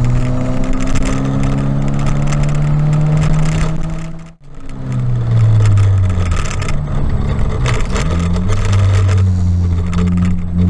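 Car engine heard from the cabin, pulling hard with its pitch climbing steadily through a gear, over the hiss of tyres on a wet track. It cuts off abruptly about four seconds in, then comes back at a different pitch, dropping and rising again as the driver shifts and accelerates.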